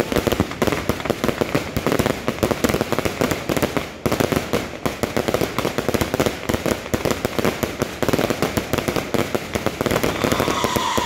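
Fireworks going off in a rapid, unbroken barrage of crackling pops and bangs, many a second.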